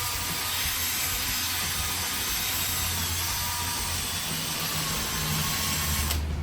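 Electric drill spinning a fine-grit sanding disc against a wet plastic headlight lens: a steady motor whine over a low hum, with the rubbing of the abrasive. It cuts off abruptly near the end.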